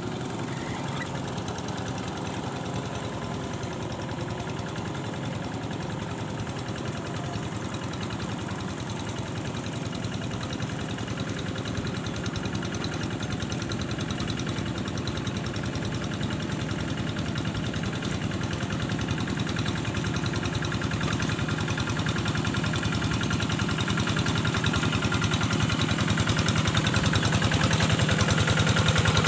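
An engine running steadily with a fast, even chugging, growing steadily louder over the second half.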